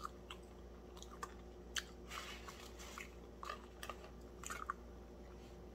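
Close-up chewing of crunchy breaded fried fish: a scatter of short, crisp crunches and mouth clicks.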